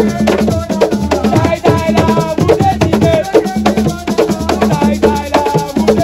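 Assiko music: drums and sharp, clicking wood-like percussion in a quick, steady rhythm, with voices singing over it.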